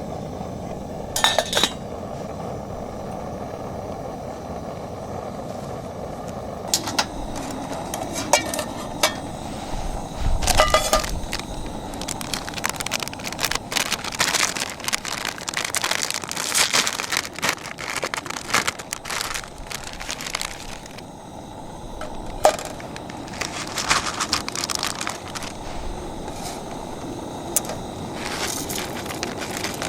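Wood fire crackling with irregular sharp pops, denser in the middle, with a few ringing clinks now and then.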